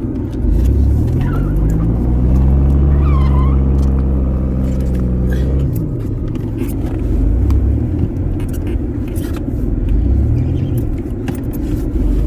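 Car engine revving up and holding high revs for a few seconds, then dropping back, with two shorter rises later, over a steady rushing noise.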